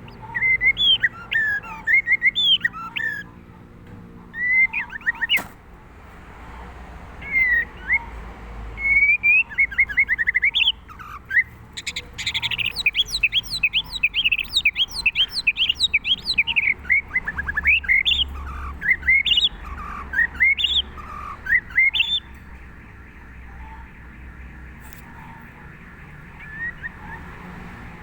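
White-rumped shama singing: bursts of quick, varied whistled notes, busiest in the middle and falling away over the last few seconds.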